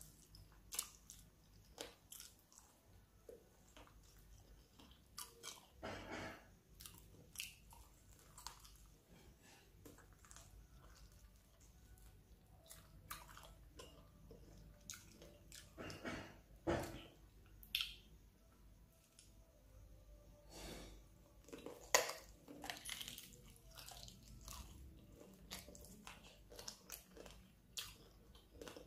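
A person chewing and biting spicy sauced chicken feet: irregular wet mouth smacks and crunches, with the sharpest snap about three quarters of the way through.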